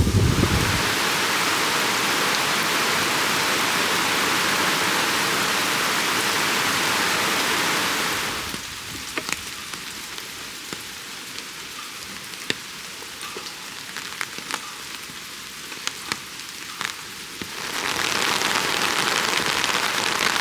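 Heavy rain pouring down in a dense, steady hiss. About eight seconds in it falls to a lighter patter where separate drops tap, and the heavy downpour returns near the end.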